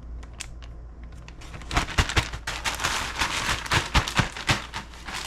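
Plastic bag holding chicken pieces and crunchy onion coating, crinkling and crackling as it is sealed and handled. Sparse clicks at first, then a dense run of sharp crackles from about two seconds in.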